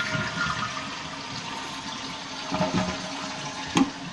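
1995 Vitromex Marathon toilet finishing its flush, water rushing steadily as the tank refills through its Fluidmaster fill valve. A sharp click sounds near the end.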